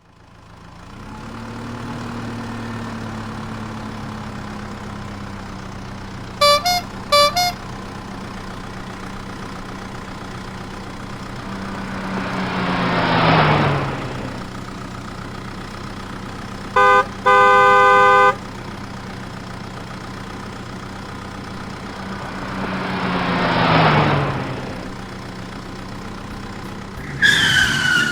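A motor vehicle engine running steadily, with two vehicles passing by one after the other, their pitch dropping as each goes past. Horn toots sound twice: two short high beeps, then later a short honk followed by a longer one. Music comes in at the very end.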